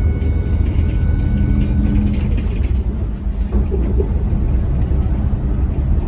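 Steady low rumble, with a few faint held tones over it in the first two seconds.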